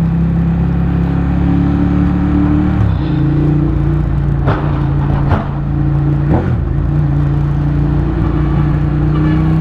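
Motorcycle engine running under way, heard from the rider's onboard mic. The engine note drops about three seconds in, then climbs back slowly, with a few short sharp sounds in the middle.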